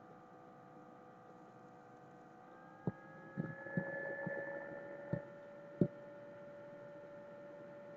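A steady machine hum made of several tones, which rises slightly in pitch about two and a half seconds in. A handful of sharp clicks fall between about three and six seconds in.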